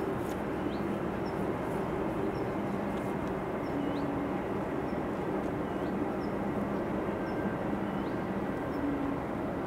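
Steady outdoor rushing noise with a faint low hum, and a small bird giving short high chirps about every one to two seconds.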